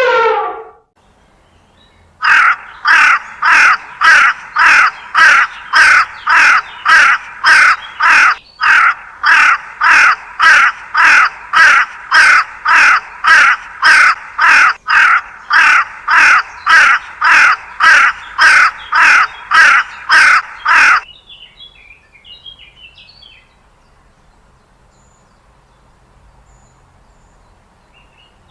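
A bird's harsh, cawing call repeated evenly about twice a second for nearly twenty seconds, then stopping abruptly; a few faint chirps follow.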